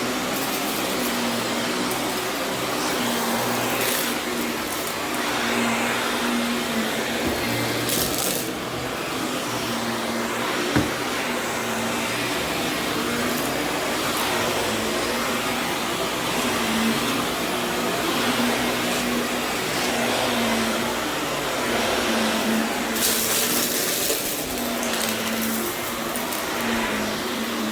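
Vacuum cleaner running over berber carpet, a steady motor hum under a dense hiss, with brief louder bursts of hiss twice as it works. A single sharp click about eleven seconds in.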